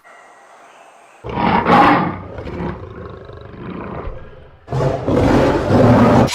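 A large animal calling twice in long, loud, rough calls, the first starting about a second in and the second near the end.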